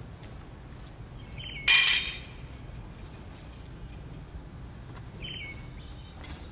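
A loud, sharp clink that rings for about half a second, about two seconds in, over scattered faint ticks. A small bird chirps briefly twice, once just before the clink and again near the end.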